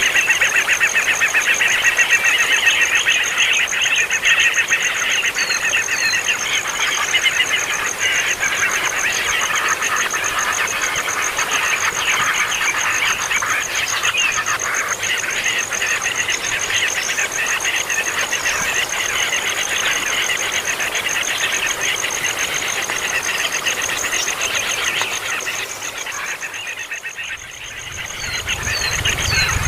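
A brood of nestling birds keeping up a dense, noisy chorus of overlapping begging calls over a steady, high pulsing buzz. Near the end the calls briefly die down and a low rumble comes in.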